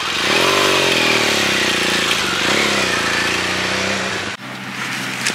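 BMW R1200GS boxer-twin engine revving as the motorcycle pulls away, its pitch rising then falling twice through the gears. About four seconds in it cuts off abruptly to a steady low hum.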